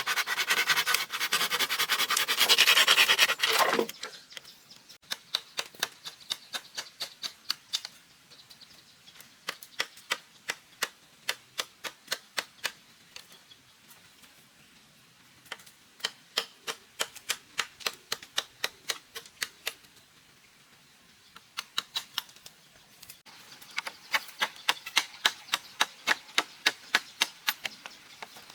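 Hand-tool work on bamboo: a rough rasping for about the first four seconds, then runs of quick, light, sharp taps, about three a second, broken by short pauses.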